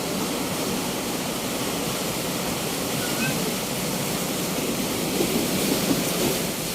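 Ocean waves breaking and washing up a beach: a steady rushing that swells about five seconds in and eases near the end.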